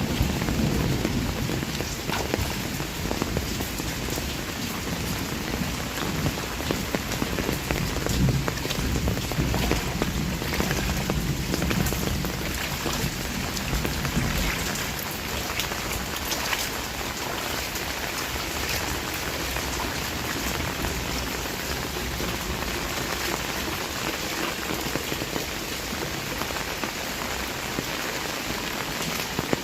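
Heavy rain falling steadily on surfaces, with many sharp close drop hits. A low rumble underneath in the first half eases off about halfway through.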